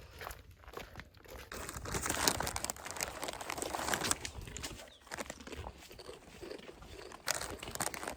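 Irregular crinkling and rustling noise, louder from about a second and a half in.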